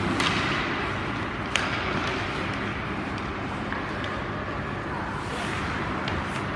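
Ice hockey game on the rink: a steady wash of skates on ice and arena noise, with one sharp crack of stick, puck or boards about a second and a half in, and a few lighter clicks later.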